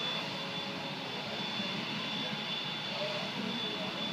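Steady jet aircraft noise: a continuous high whine over an even rumble, with no change in pitch or level.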